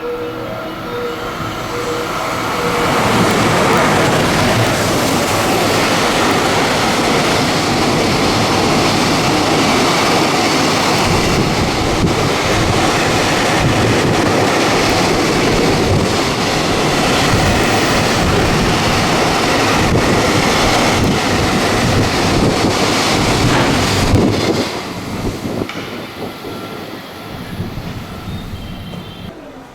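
An electric train passing through a station at speed without stopping: a loud, steady rush of wheels on rail that builds over the first few seconds, holds for about twenty seconds, then drops off and fades away.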